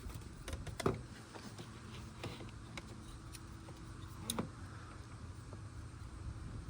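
A few faint clicks and knocks from jumper clamps and cables being handled and clipped onto the car battery's terminals, the loudest about a second in and just past four seconds.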